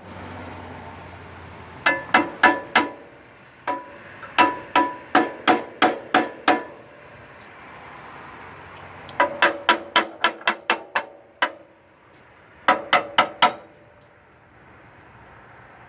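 Hammer striking metal in bursts of several quick ringing blows, with short pauses between the bursts.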